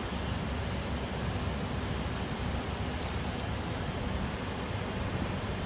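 Steady rain falling on a concrete rooftop, an even hiss with a low rumble underneath and a few sharp drop ticks about three seconds in.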